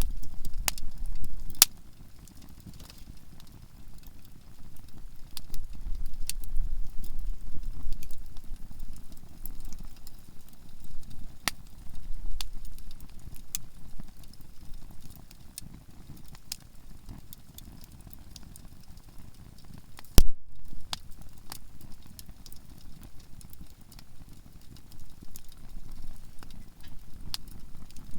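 Conifer firewood burning in a campfire, crackling with sharp pops scattered throughout and one loud crack about twenty seconds in. A low rumble comes and goes beneath it.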